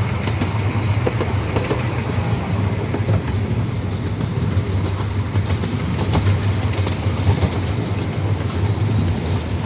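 Amusement-park ride-on railway train running, heard from aboard: a steady low rumble with scattered clicks of the wheels over the track.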